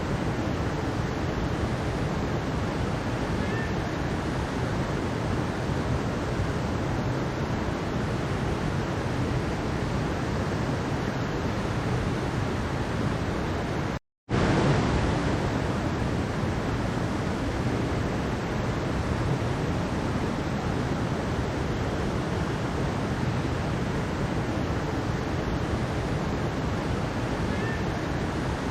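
Mountain stream water rushing steadily over rocks. It cuts out completely for a split second about halfway through, then comes straight back.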